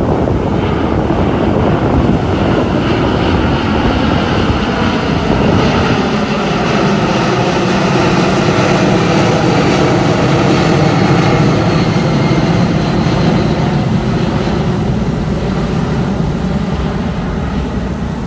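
Boeing 747-200F's four turbofan engines at takeoff power: a loud, steady jet roar, with a set of humming tones joining in about five seconds in and slowly drifting in pitch.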